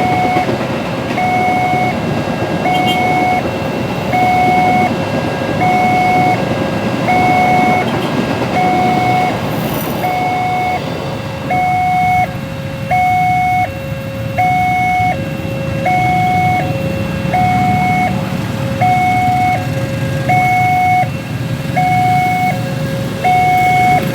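Railway level-crossing warning alarm sounding its electronic two-tone signal, a higher and a lower tone alternating about every second without a break. Beneath it runs a steady rumble of train and road noise that eases about halfway through.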